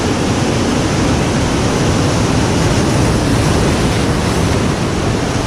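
Ocean surf breaking and washing in, a steady rush of noise, with wind buffeting the microphone.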